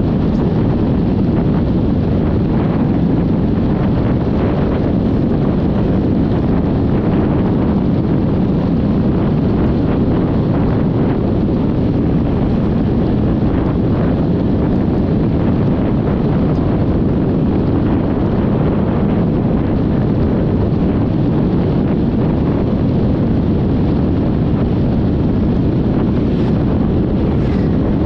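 Steady low rumble of wind rushing over the microphone while riding a Yamaha XMAX 300 scooter at speed, with the scooter's running noise blended in underneath.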